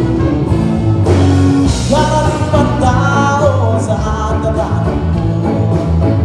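Live band playing amplified rock-style music through a PA system, with bass and guitar under a singer's voice that comes in about a second in.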